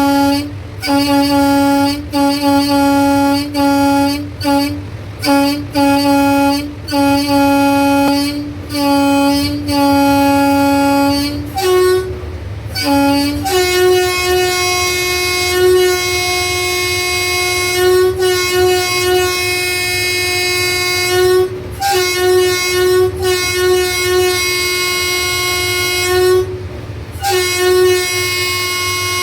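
Locomotive horn sounded again and again to drive a herd of buffaloes off the track. First comes a string of short blasts about a second apart, then the pitch steps up and one long blast is held for over ten seconds before short blasts return near the end.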